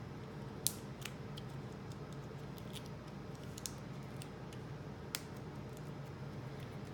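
Faint handling sounds of paper crafting: a few scattered small clicks and ticks as the backing is peeled off foam adhesive dimensionals and they are pressed onto a cardstock panel, over a low steady hum.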